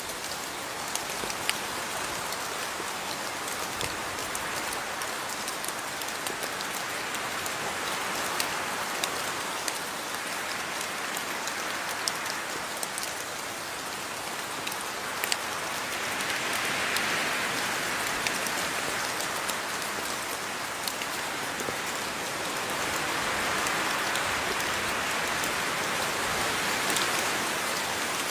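Steady rain falling, with individual drops ticking sharply on a nearby surface. The hiss swells a little about halfway through and again near the end.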